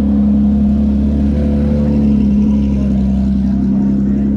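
A car engine running at a steady, unchanging pitch, loud and close.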